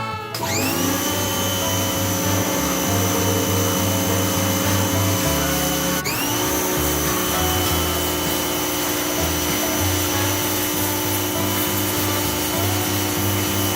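Small high-speed electric power tool motor spinning up with a rising whine and running steadily, switched off briefly about six seconds in and spun up again.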